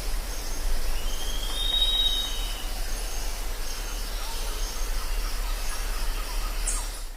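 Jungle ambience: a dense hiss of insects with high, steady pulsing trills and one long clear whistled call about a second in, over a constant low hum. It cuts off suddenly at the end.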